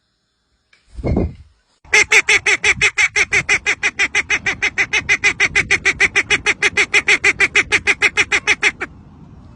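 A bird's call: a fast, even run of identical honking notes, about seven a second, starting about two seconds in and stopping shortly before the end. A short dull sound comes about a second in, before the calling.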